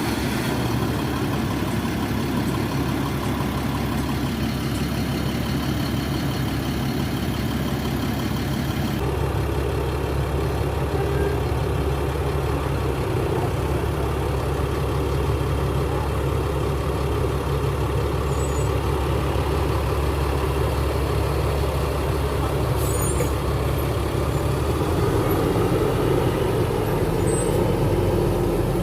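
Caterpillar 3126 diesel engine of a 2002 Thomas FS-65 school bus idling steadily just after start-up. Its note changes about nine seconds in and again near the end.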